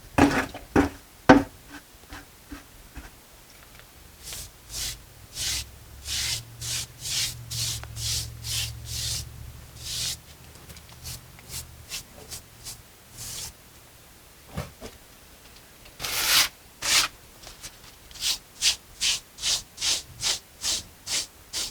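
Stiff mason's brush scrubbing over fresh, wet mortar on a brick wall, in quick repeated strokes about two a second, working the patch in and texturing it. A few knocks come right at the start.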